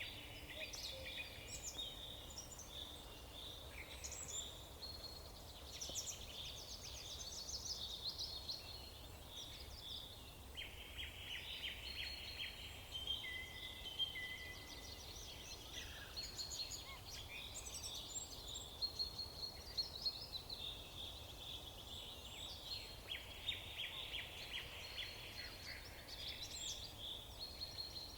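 Several songbirds singing and chirping at once, overlapping trills and short whistled notes, with a steady low hum underneath.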